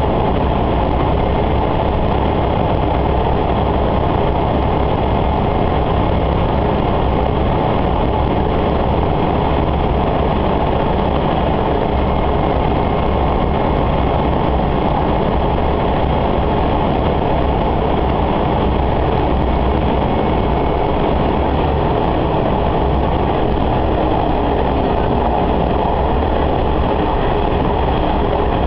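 Sanriku Railway diesel railcar running steadily, heard from inside the car: a constant mix of engine noise and wheels on rail that does not change.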